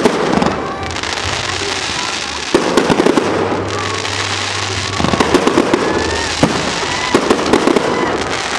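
Aerial fireworks display: shells bursting and crackling, with clusters of rapid bangs coming every second or two over a continuous crackling hiss.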